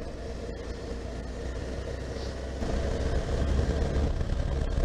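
Honda CB1300SF's inline-four engine running while the motorcycle is ridden. It grows louder about two and a half seconds in.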